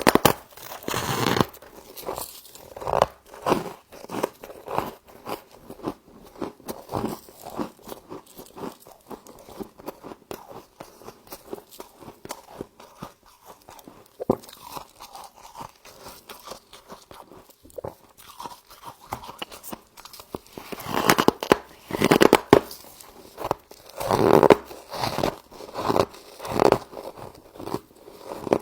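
Frost being bitten and chewed close to the microphone: a long run of short, crisp crunches, thicker and louder in the last quarter.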